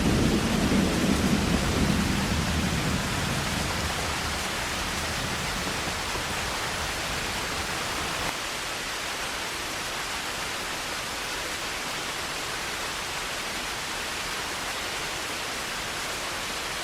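Heavy rain falling steadily, with a low rumble of thunder at the start that dies away within the first few seconds.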